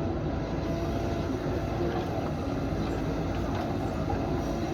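Diesel engine of a JCB backhoe loader running steadily under work, a constant rumble with a held drone.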